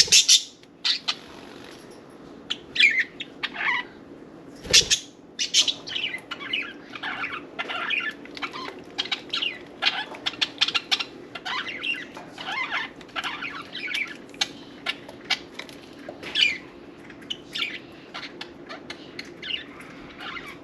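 Budgerigars chattering in a dense run of short, quick chirps, with wings flapping and a couple of brief soft knocks, one at the start and one about five seconds in.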